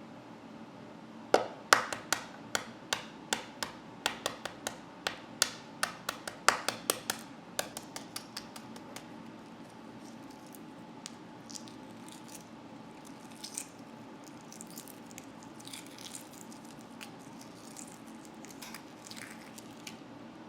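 Hard-boiled egg being cracked and peeled: a series of about twenty sharp taps of the shell on a hard surface over several seconds, then softer, scattered crackles as the shell is picked off.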